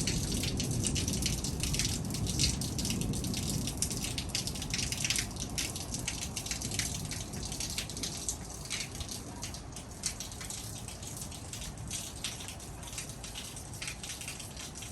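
Heavy thunderstorm rain pouring down, dense drops tapping and splashing on hard surfaces, slowly easing. A low rumble under the rain fades away over the first several seconds.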